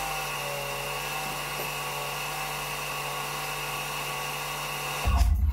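Husqvarna Automower 220/230 robotic lawnmower running with a loud, steady whine and a slightly wavering pitch: the loud mowing noise of a defective blade disc and worn wheel and skid-plate bearings. Music with a strong beat cuts in near the end.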